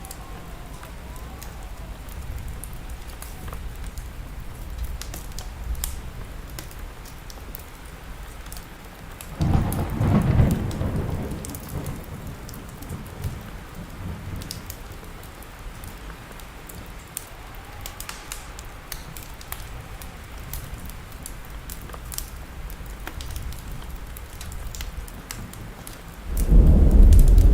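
Steady rain with sharp crackles of a wood fire over it, and thunder: a rumble about a third of the way in that fades over a few seconds, then a louder, deeper clap near the end.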